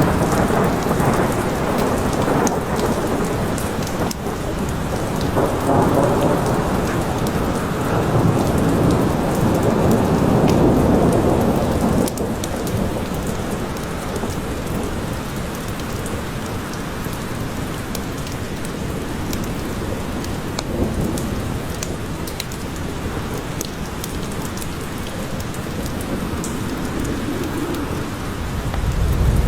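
Steady forest rain with thunder: a low rumble swells through the first part and dies away about twelve seconds in, leaving the even hiss of rain with scattered drop ticks, and a short low rumble returns near the end.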